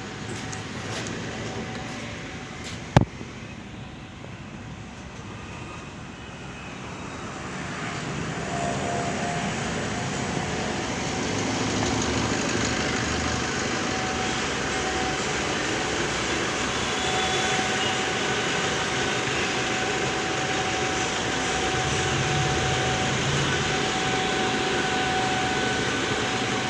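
Maruti Brezza's engine running during an engine carbon-cleaning service, with a single sharp click about three seconds in. The engine sound grows louder from about seven seconds in and then holds steady.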